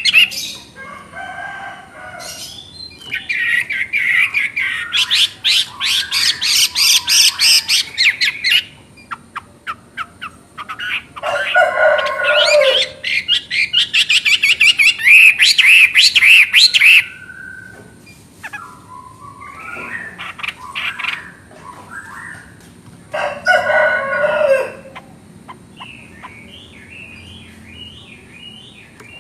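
Chinese hwamei singing: loud phrases of fast, rapidly repeated high notes, three main outbursts with quieter calls between, some phrases sliding down to lower notes.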